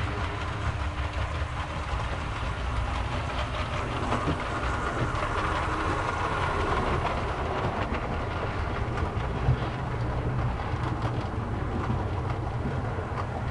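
OO gauge model diesel trains running on the layout: a steady rumble with the rapid clicking of wheels over rail joints, a little louder around the middle as a train runs closer.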